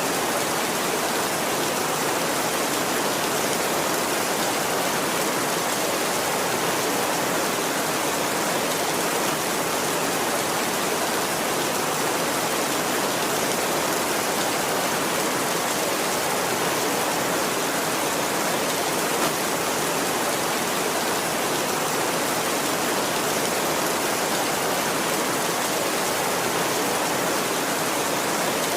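Heavy rain falling steadily, an even hiss that holds at the same level with no thunder.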